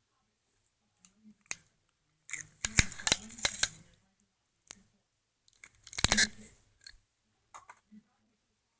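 Scotch tape being pulled off the roll and torn, in two noisy rips with sharp clicks: one about two and a half seconds in, the other about six seconds in.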